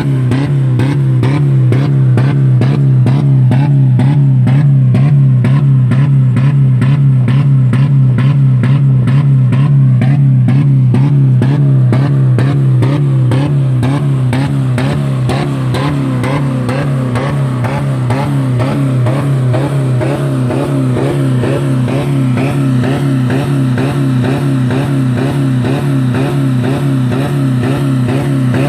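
2000 Dodge Neon's 2.0-litre four-cylinder engine running flat out, held at a steady high speed of about 4000 rpm on the rev limiter, with a fast, regular pulsing. The engine has no oil and no coolant in it and is being run until it fails.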